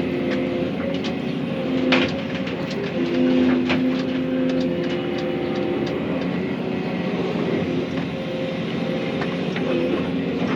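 Excavator running under load while clearing brush: a steady engine and hydraulic hum whose tones shift as it works, with scattered sharp knocks and cracks, the loudest about two seconds in.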